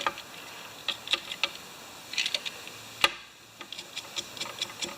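Electrical knife blade scraping darkened copper wire conductors, a run of small, irregular scratchy clicks, with one sharper click about three seconds in. The scraping cleans off the dark film to expose bright conductor.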